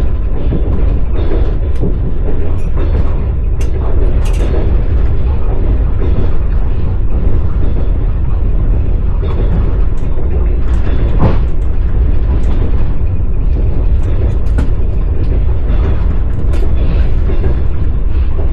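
Passenger train carriage running on rails: a loud steady low rumble of the wheels, with scattered sharp clicks and knocks from the track.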